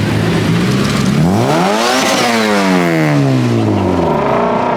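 A Honda Civic EK's engine is revved once. It climbs quickly to a peak about two seconds in, then falls back more slowly to idle near the end, over steady street and crowd noise.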